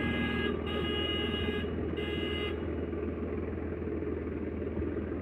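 Swaraj tractor engine running steadily with a low rumble. Over it, a high horn-like tone sounds three times in the first two and a half seconds, then stops.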